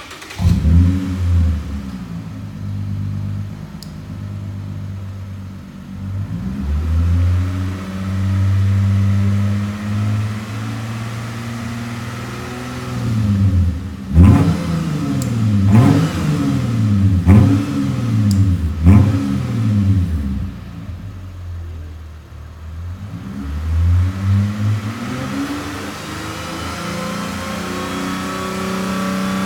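Toyota Crown (200 series) 3.5-litre V6 exhaust through a one-off straight-through stainless rear section with no rear silencer, the stock centre muffler kept, revved between about 2,000 and 4,000 rpm. The revs rise, hold and fall a few times, then come as a string of quick blips around the middle, then climb slowly near the end.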